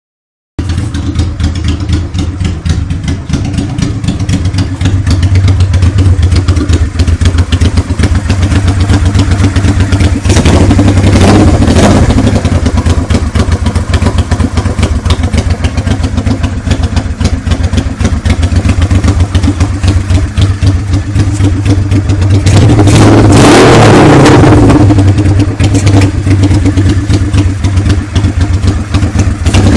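Honda NTV 650 Revere's V-twin engine running with no exhaust fitted, so the open pipes sound loud and raw. It idles steadily and is revved briefly twice, once about a third of the way in and for longer about three quarters of the way through.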